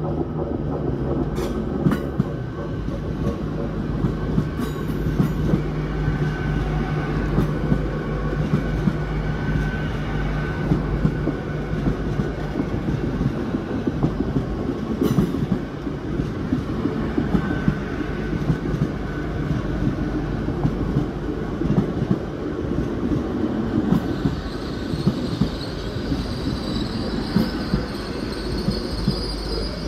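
GWR Hitachi Intercity Express Train rolling past on the platform line: a steady rumble of wheels on rail, with clicks and knocks over the rail joints and a faint wheel squeal. Near the end a higher whine joins in.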